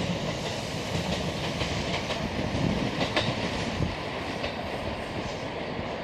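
JR Hanwa Line electric train running through the station: steady running noise, with a few clacks of wheels over rail joints.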